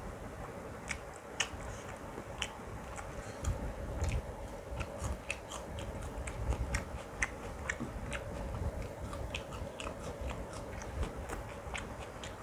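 Close-miked chewing and wet mouth sounds of a person eating biryani and mutton curry: irregular small smacks and clicks several times a second over a steady low hum.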